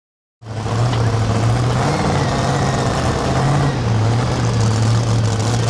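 Engine of a super modified two-wheel-drive pulling truck running at a steady, loud idle, cutting in abruptly about half a second in.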